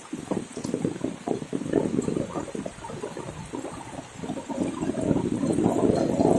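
Heavy rain pouring down, a dense crackling splatter of water. It is lighter at first and swells louder again near the end.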